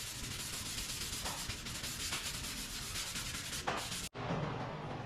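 Abrasive sanding on a car's quarter panel, a dense scratchy rasp that stops abruptly about four seconds in, followed by a duller, lower sound.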